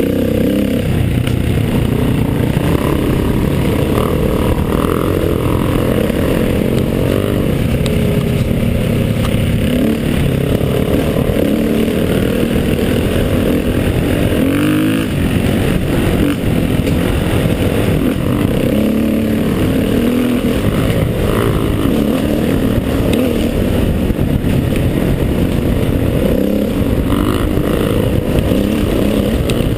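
Motorcycle engine running under load on an uphill dirt climb, its note shifting with the throttle, with a dip and rise in pitch about halfway through.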